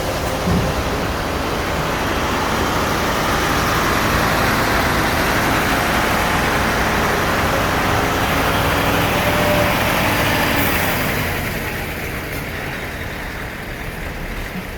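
A heavy road vehicle running past with engine and tyre noise, growing louder and then fading away about eleven seconds in.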